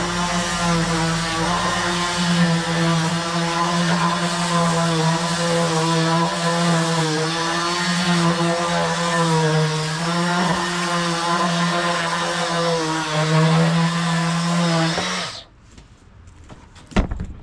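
Electric sander and dust extractor running steadily, the motor pitch wavering slightly as the sander works the wood; both cut off suddenly about fifteen seconds in. A single knock follows near the end.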